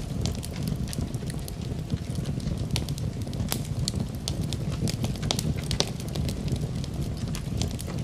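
Wood fire in a fireplace crackling, with many sharp irregular pops and snaps, over a steady low rumble of gentle wind.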